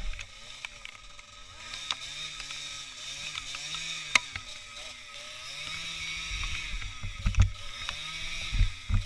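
A small motorcycle engine revving up and down over and over, its pitch rising and falling every second or so as it rides off-road, with several sharp knocks and low thumps.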